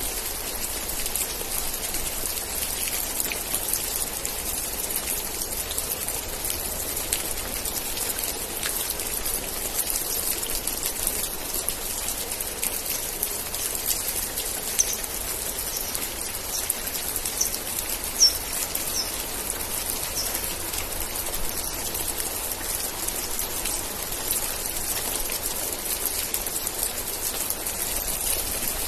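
Steady rain with many individual drops ticking on a surface. About halfway through, a few short high chirps sound over it.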